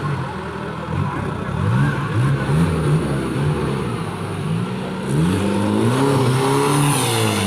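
Off-road race vehicle's engine revving, its pitch rising and falling again and again in short blips, with longer revs in the last few seconds.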